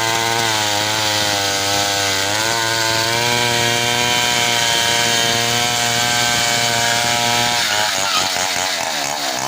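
Large chainsaw running at full throttle while cutting through a hardwood log, its pitch dipping under load about two and a half seconds in. Near the end the engine comes off the throttle and its pitch drops and wavers.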